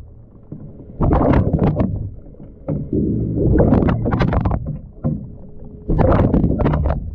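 Water sloshing and churning in a washing machine drum, heard from inside the drum, with loud surges about every two seconds as the drum turns.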